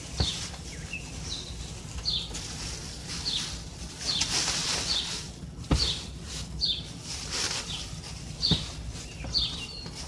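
A bird calling over and over, a short high falling note about every two-thirds of a second, over a low steady rumble. A few sharp knocks are heard near the start, about halfway through and near the end.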